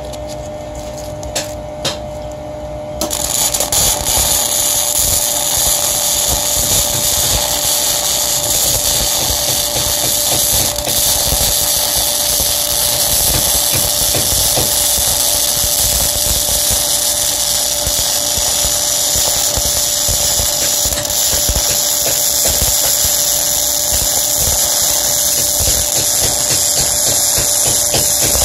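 A 120-volt Harbor Freight flux-core wire-feed welder arc welding mild steel plate, a steady loud crackle that starts abruptly about three seconds in. Before it there is a steady electrical hum and a couple of clicks.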